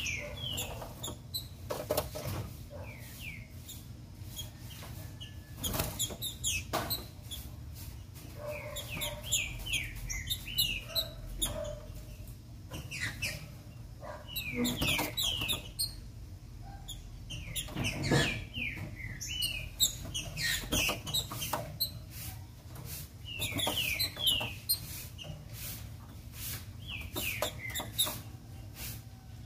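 Female green-winged saltator (trinca-ferro) calling in runs of short, falling chirps, repeated in clusters every second or two, with sharp knocks and wing flutters as the bird moves about its cage.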